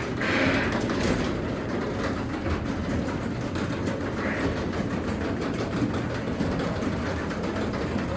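Craftsman 3/4 hp belt-drive garage door opener running steadily, its motor humming and driving the belt and trolley while the door rattles along its tracks.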